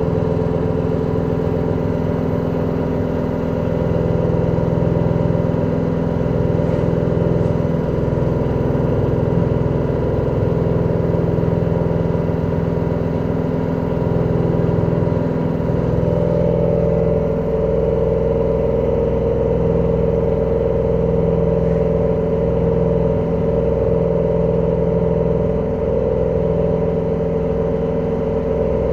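LG direct-drive washing machine spinning, making the extreme noise of a faulty spin cycle: a loud, steady mechanical drone of several tones. About sixteen seconds in, a stronger higher tone joins and holds.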